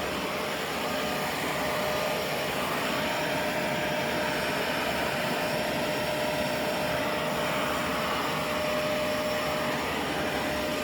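Vacuum cleaner running in blower mode, blowing accumulated dust out of a computer: a steady rushing of air with a constant whine.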